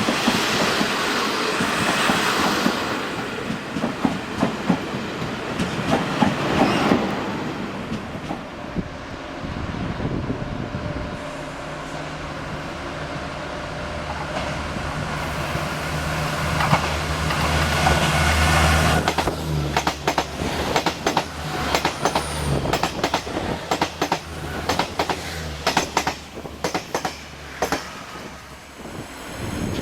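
A train at a station, its wheels clicking over the rail joints. In the middle a steady low hum comes from the train, and a long run of wheel clicks follows in the second half.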